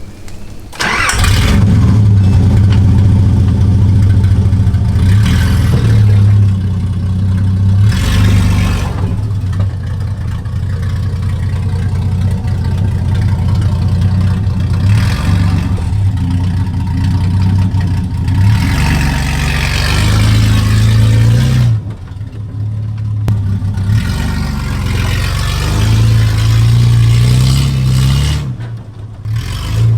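Nissan GQ Patrol's carburetted TB42 4.2-litre straight-six, running with no exhaust fitted, comes in loud and sudden about a second in. It is driven with the revs rising and falling, and drops briefly around two-thirds of the way through and again near the end.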